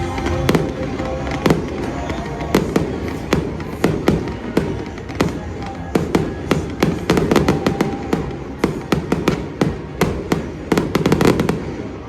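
Stadium fireworks going off in quick, irregular volleys of sharp bangs and crackles, thickest about seven seconds in and again near the end. Music plays underneath.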